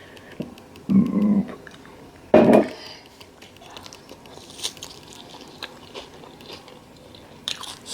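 A person chewing a mouthful of veggie burger close to the microphone, with soft small mouth clicks. There is a short hummed sound about a second in and a louder sudden noise about two and a half seconds in.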